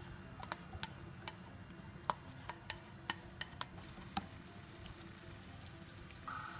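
Sliced turmeric, ginger, garlic and shallots frying in hot oil in a wok, stirred with a spatula. Scattered sharp clicks and pops over the first few seconds, then a steadier sizzle from about four seconds in.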